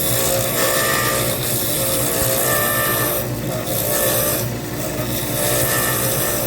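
Lathe running with a tool worked against a spinning resin pen blank: a steady motor hum under a rough scraping noise that rises and falls as the tool moves.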